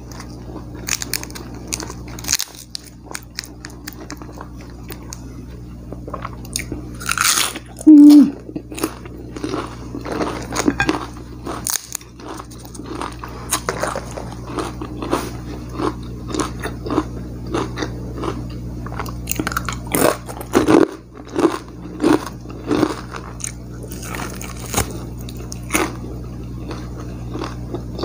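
Close-miked chewing and biting as a person eats fried duck and crisp crackers by hand, with many irregular crunches and mouth clicks. A short hum from the eater about eight seconds in.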